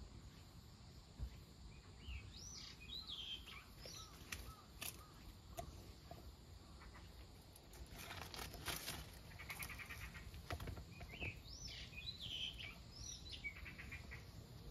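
A songbird singing a short phrase of high, swooping notes, twice, about nine seconds apart. A brief rustle comes in between, about eight seconds in.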